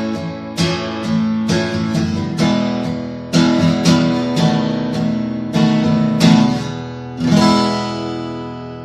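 Martin D-76 dreadnought steel-string acoustic guitar strummed in a steady rhythm of chords. About seven seconds in, a last chord is struck and left to ring out, fading away.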